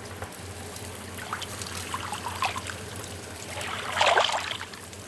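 Tortillas frying in hot oil in a nonstick pan, a steady fizzing sizzle with small crackles. About four seconds in there is a louder, brief scrape or clatter of the pan, over a low steady hum.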